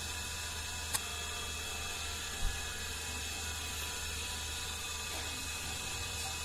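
Steady background hiss with a low hum, broken by one short click about a second in and a soft low knock a little later.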